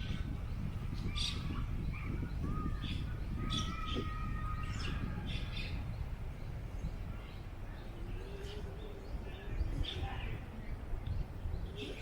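Small birds chirping and calling in quick short notes, with one longer whistled note about three seconds in, over a steady low rumble of wind on the microphone. Faint distant voices come in near the end.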